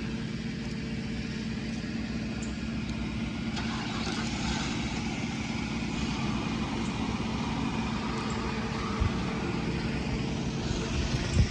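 Large truck engine idling steadily, with a couple of dull knocks near the end.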